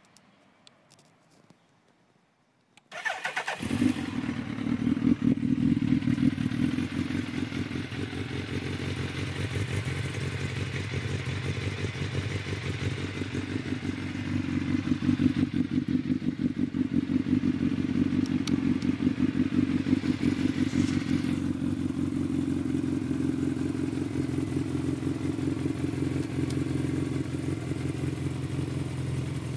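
Suzuki motorcycle engine started on the electric starter about three seconds in. It catches at once and settles into a steady idle, a little louder in the first seconds after starting and again around the middle.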